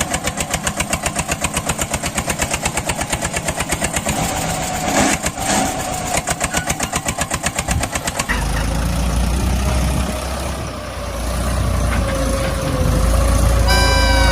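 Mini tractor engine running with an even beat of about five pulses a second. About eight seconds in, the beat gives way to a steady deep rumble. Near the end there is a short tone falling slightly in pitch.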